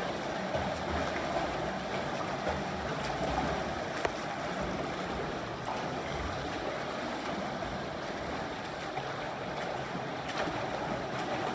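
Steady splashing and churning of water from swimmers doing a swim drill, with a single click about four seconds in.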